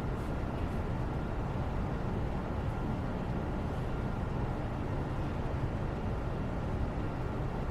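Steady background white noise, a deep even hiss weighted toward the low end, with no separate events.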